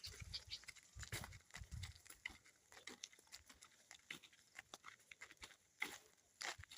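Faint footsteps and crackling of dry vegetation underfoot while walking, irregular clicks throughout, with a few low rumbling thumps in the first two seconds.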